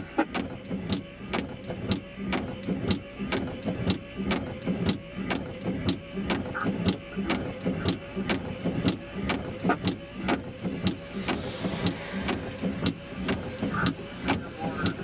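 Radio receiver static with a steady, even clicking about three times a second.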